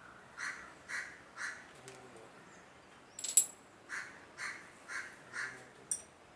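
A crow cawing in two runs, three caws and then four, about half a second apart. About three seconds in, a small metal part clinks sharply with a brief ring, the loudest sound here.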